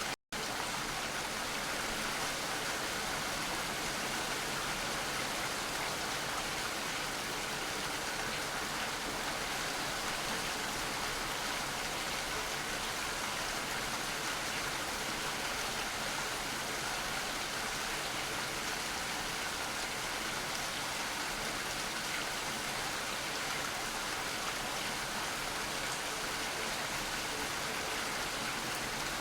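Steady rain falling, an even hiss of many drops. It cuts out to silence for an instant about a quarter second in, then carries on unchanged.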